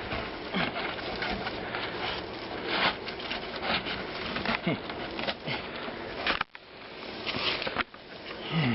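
Irregular rustling and crackling of brush with scattered small knocks and scrapes, as someone works around an old truck's front end trying to get the hood open. The sound drops out abruptly for a moment about six and a half seconds in.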